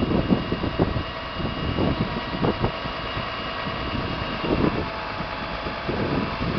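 Claw truck's engine running, with a steady whine over an uneven low rumble.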